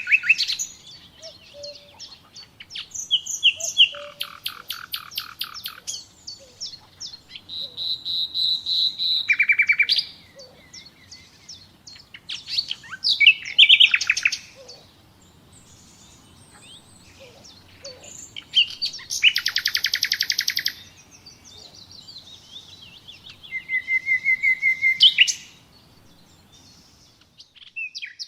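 Common nightingale singing: a string of separate phrases a few seconds apart, each made of fast repeated notes or trills, with short pauses between the phrases.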